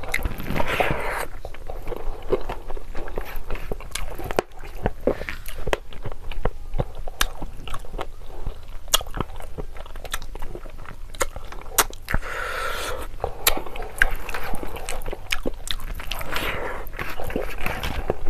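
Close-miked chewing and wet mouth sounds of a person eating rice and mutton curry by hand, with many sharp lip-smacking clicks throughout.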